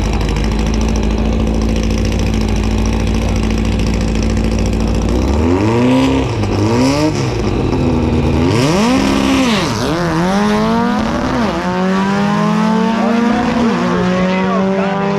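Drag race cars at the start line: engines idling steadily, then revved hard a few times about five seconds in, then accelerating away with engine pitch climbing and dropping at gear changes about twelve and fourteen seconds in.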